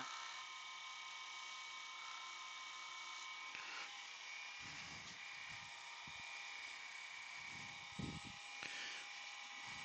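Wood lathe running steadily: a faint motor whine over a hiss, with a few soft low knocks about halfway through and again near the end.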